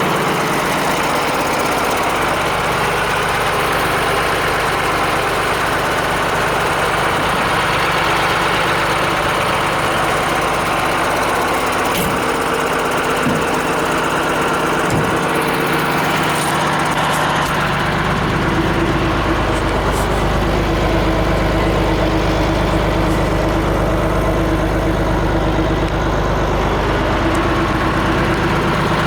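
Diesel engine of a Renault 110-170 4x4 truck running steadily. About two-thirds of the way through, its note grows deeper and fuller.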